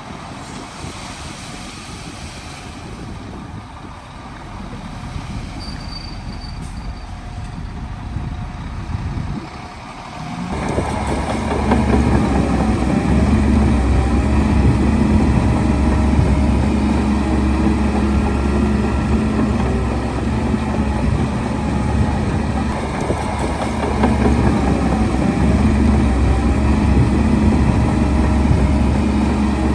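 Heavy diesel construction machine at work. Its engine is fairly faint at first, then about ten seconds in it comes in much louder and closer, running steadily with a deep low hum.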